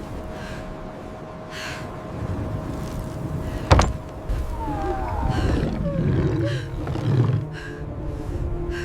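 Animal growling and snarling over a low rumble, with one sharp bang a little before halfway through.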